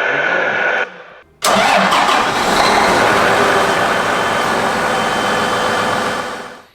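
A John Deere farm tractor's diesel engine starting and running, cutting in suddenly about a second and a half in and fading out near the end; the tail of a previous engine clip fades out in the first second.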